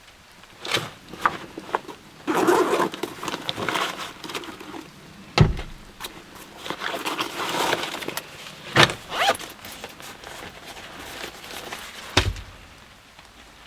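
Rustling and clattering as things are handled, broken by three heavy thumps about three and a half seconds apart.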